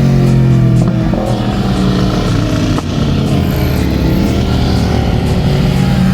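Superbike engine running at high revs, its pitch falling as it slows over the first couple of seconds, then climbing again as the throttle opens toward the end.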